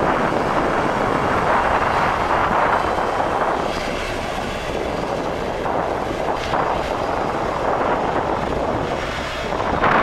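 Airliner engines running, a steady rushing noise that swells slightly near the end.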